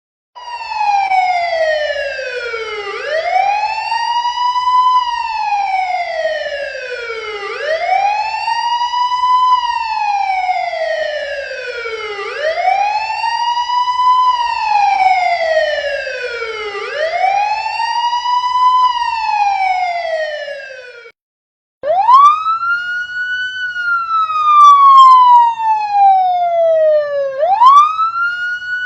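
Emergency siren wailing, each cycle a quick rise in pitch and a slower fall, repeating about every four and a half seconds. It cuts off suddenly about 21 seconds in. A second later a higher-pitched siren of the same wail pattern starts, cycling about every five and a half seconds.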